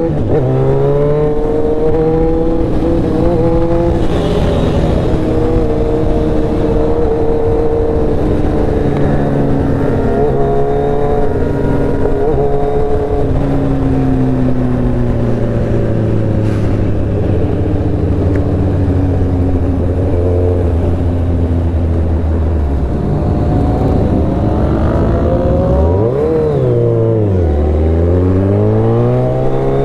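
Motorcycle engine under way, its pitch climbing and dropping as the rider accelerates and shifts through the gears. It holds a steady cruise through the middle, then near the end the pitch falls sharply and climbs again.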